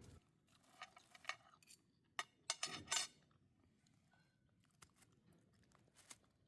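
Light clinks and taps of dishes and cutlery: a quick cluster of them between about one and three seconds in, then a couple of faint ones later.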